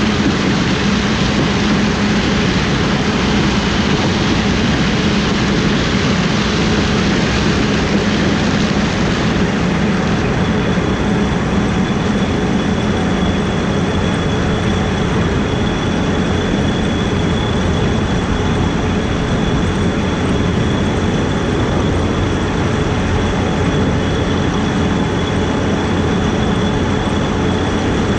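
Combine harvester running steadily in corn, a loud even machine noise with a low hum; about ten seconds in, a steady high-pitched whine joins in and holds.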